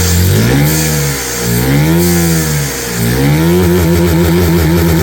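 Vacuum-powered piston engine with 3D-printed parts spinning at high speed, its pitch dipping and climbing back twice as it revs, then holding steady.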